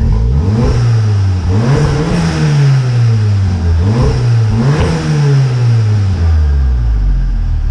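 Mk7 Volkswagen Golf R's turbocharged four-cylinder engine revved about four times in quick blips from idle. The last rev falls away slowly and settles back to a low idle near the end.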